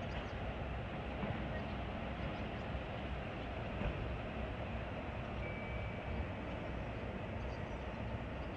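Steady, even background rumble of outdoor ambience, with no distinct events.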